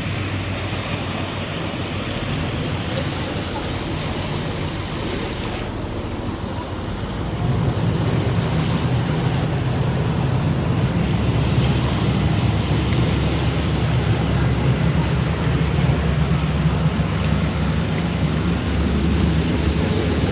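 The MV Hunter ferry's engine running with a steady low hum, getting louder about seven seconds in, over a rush of water and wind on the microphone.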